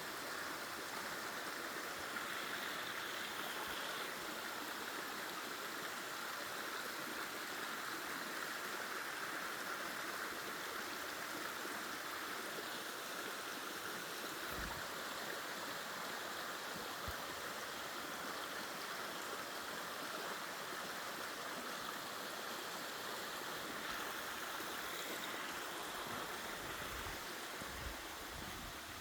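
Mountain stream rushing steadily over rocks, a continuous even rush of water.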